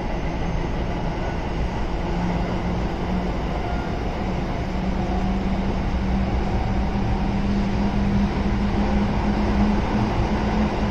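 Kintetsu 7000 series train running, with its early Hitachi GTO-VVVF traction drive giving a steady hum that slowly rises in pitch over continuous rail and running noise.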